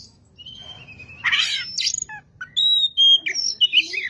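Oriental magpie-robin (kacer) singing a varied run of clear whistled notes, some held and some sliding up or down, with a rougher, scratchier note about a second in and quick changing phrases in the second half.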